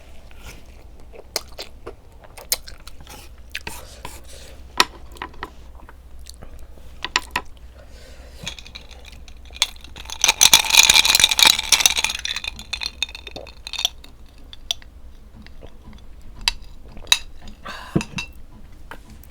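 Close-miked eating sounds: a person chewing ramen noodles and chicken wings, with scattered sharp mouth clicks and smacks. About halfway through there is a louder, dense burst lasting about two seconds.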